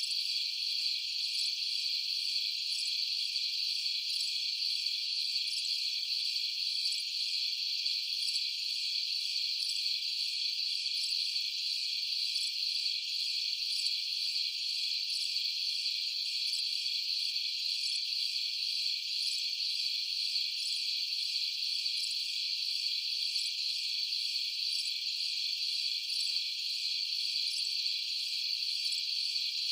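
Night insect chorus: a steady, high-pitched trilling that goes on without a break.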